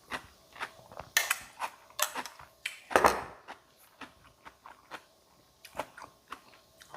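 Close-up eating sounds: a string of sharp crunches and clicks from biting and chewing crunchy cucumber som tam, busiest and loudest between about one and three seconds in, then sparser.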